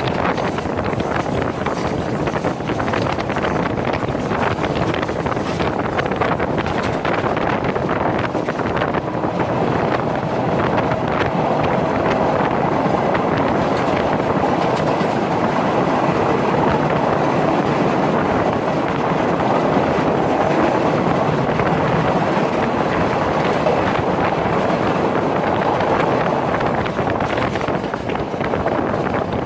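Udaya Devi express train running along the track, a steady loud rumble and rattle of wheels and carriages on the rails.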